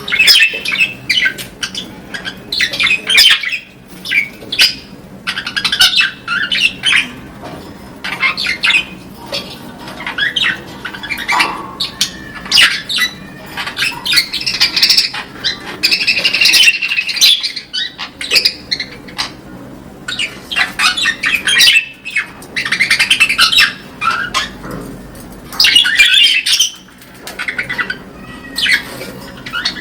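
Budgerigars chattering: a busy mix of chirps, warbles and squawks in bursts, with short lulls between them.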